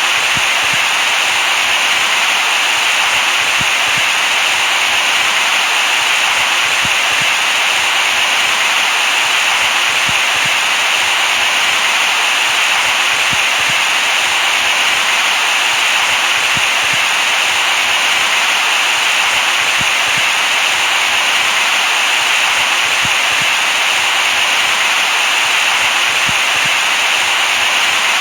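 Steady white noise: an even, unbroken hiss, brightest in the upper range, that does not change.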